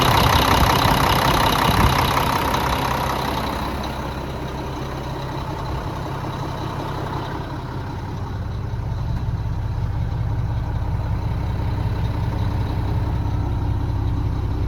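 Mack diesel engine of a heavy truck running, louder and brighter for the first few seconds, then settling to a steady low idle about four seconds in.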